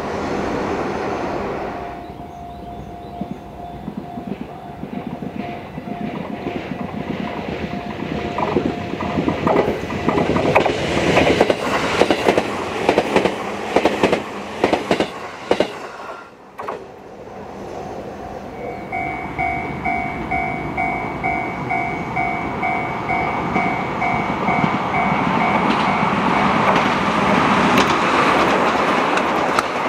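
An Izuhakone Railway Sunzu Line electric train runs past, its wheels clicking rapidly over the rail joints, loudest in the middle. A steady pulsing ding-like tone rings before the train passes and again over the running noise later on.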